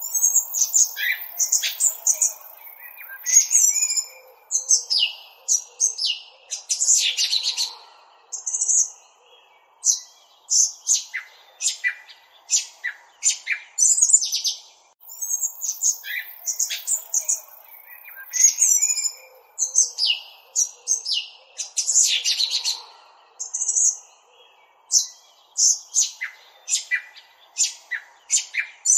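Small birds chirping: rapid, high twittering calls. The same stretch of about fifteen seconds plays twice, as in a looped recording.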